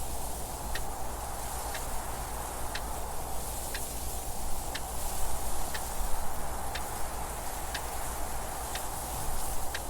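A clock ticking once a second, each tick a short, light click, over steady wind noise that gently swells and eases.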